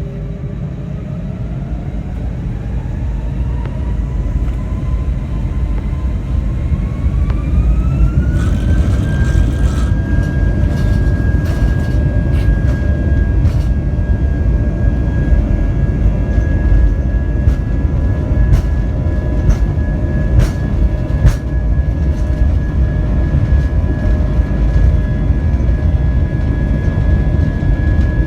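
Airbus A320 jet engines spooling up to takeoff thrust, heard inside the cabin: a rising whine that levels off after about eight seconds over a heavy rumble. Then the steady roar of the takeoff roll, with repeated short knocks and rattles.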